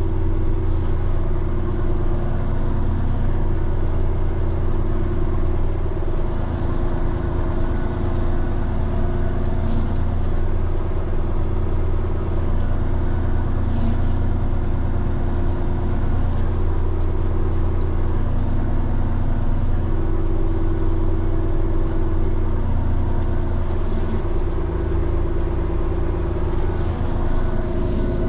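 Peterbilt 389X heavy rotator wrecker's diesel engine running steadily as the truck drives, a low drone with a higher tone that steps up and down every few seconds.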